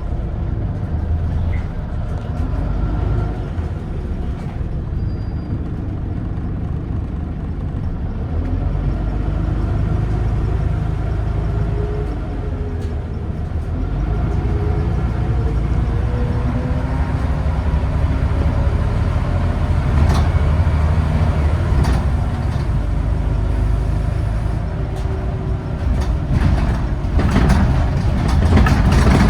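Diesel engine of a Scania N94UD Omnidekka double-decker bus heard from on board as it drives, the engine note rising as it accelerates about halfway through. Knocks and rattles from the bus come thick near the end.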